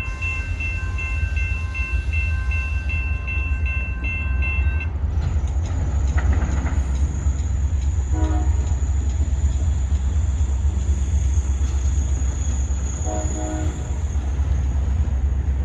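CSX diesel locomotive rumbling past close by, the rumble growing louder about five seconds in. A level-crossing bell dings steadily over the first five seconds, then stops, and a high steady whine carries on over the rumble.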